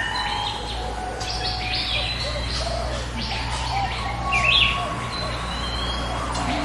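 Small birds chirping, with many short overlapping calls and quick pitch glides throughout, over a steady low rumble.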